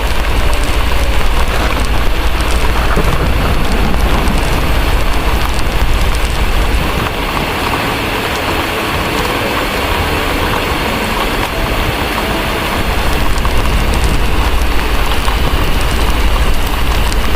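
Steady heavy rain with a low rumble of distant thunder underneath, which eases off in the middle and builds again. Faint crackling from a fireplace ticks through the rain.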